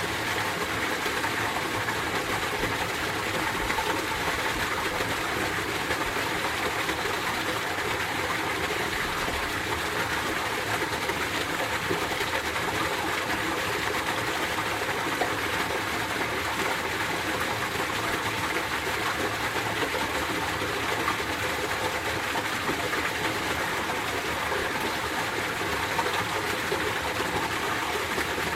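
Mountain stream water flowing and splashing over rocks, a steady rushing with no change in level.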